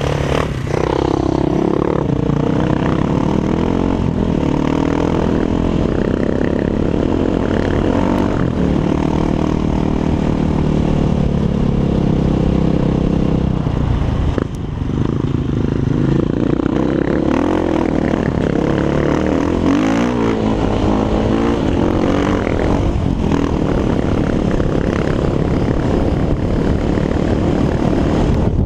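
Exhaust note of a Six Days 500 enduro motorcycle's single-cylinder four-stroke engine through an Akrapovic exhaust, running under throttle with the pitch rising and falling as the revs change. Revs drop briefly about halfway through, then build again.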